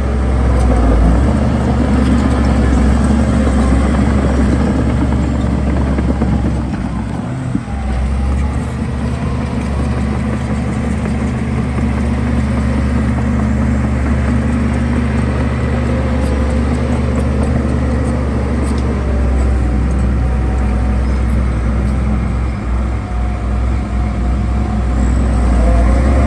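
Heavy diesel engine of earthmoving machinery running steadily, a loud deep drone that dips briefly about seven seconds in and again near twenty-three seconds.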